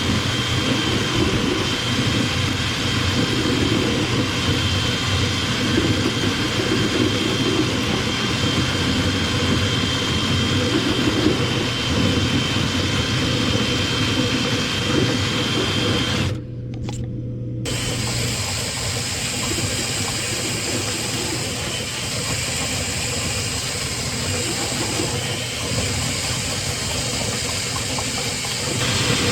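Steady motor noise from power dryer-vent cleaning equipment running without a break. Its sound briefly drops out a little past halfway and then carries on with a changed tone.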